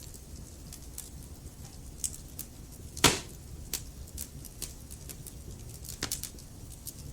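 Logs burning in a fireplace, crackling with scattered small pops and one much louder pop about three seconds in, over a low steady rumble.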